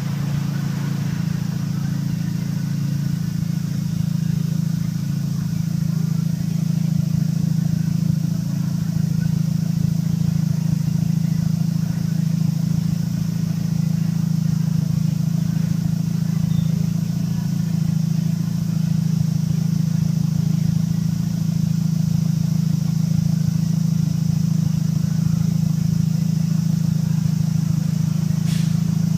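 MINI R50's engine idling steadily through a straight-pipe exhaust with the muffler removed, giving a loud, even, low drone.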